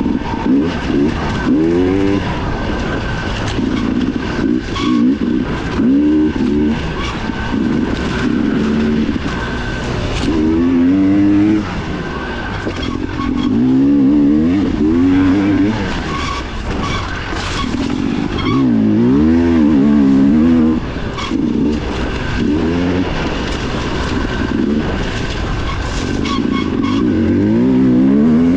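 Dirt bike engine revving hard along a trail, its pitch rising and falling over and over as the throttle opens and closes, with scattered knocks.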